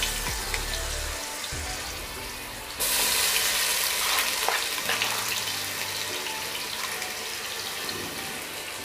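Ginger-garlic paste and whole spices sizzling in hot oil and ghee in a pot: a steady frying hiss that gets suddenly louder about three seconds in. Faint background music plays underneath.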